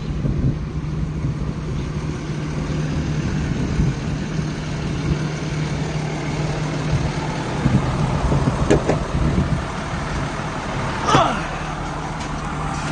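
Amazon delivery truck driving, its engine and road noise making a steady low drone, with a few rattles and clicks and a brief high squeal about eleven seconds in.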